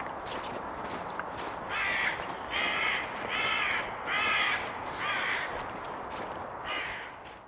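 A bird gives a run of five harsh calls starting about two seconds in, and one more near the end, over steady footsteps on a woodland dirt track. The sound fades out at the very end.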